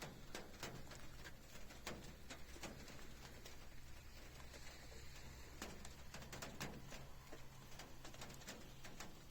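Storm precipitation ticking irregularly on a hard surface, a few sharp taps a second over a low steady hum.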